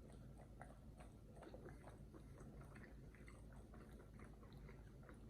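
Faint chewing, with small irregular crunches and clicks of food being eaten.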